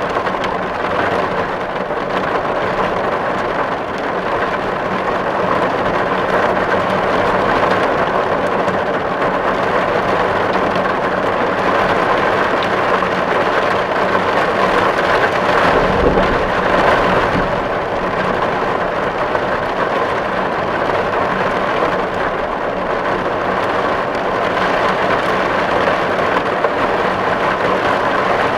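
Steady rain falling on a tin roof, a dense patter of drops on the metal. About halfway through it briefly swells, with a low rumble beneath.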